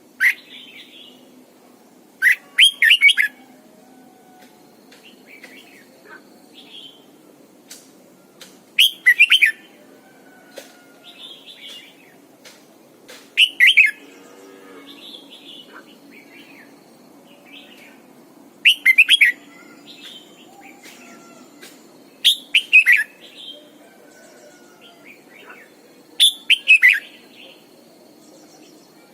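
Red-whiskered bulbul singing: short, loud, warbling song phrases repeated every four to six seconds, with softer chirps in between. A faint steady hum runs underneath.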